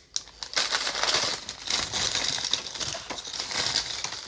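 A bag of chips crinkling and rustling as it is handled, a dense crackling for about four seconds.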